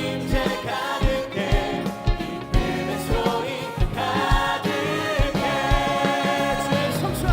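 Contemporary worship band with a group of singers performing a Korean praise song, with voices carrying the melody over a steady drum beat.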